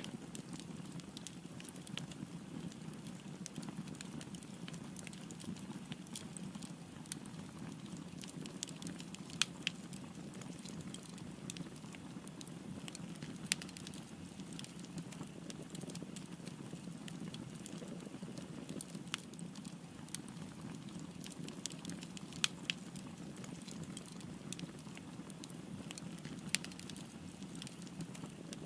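Wood fire burning with a steady low rush and constant crackling, a few sharper pops standing out now and then.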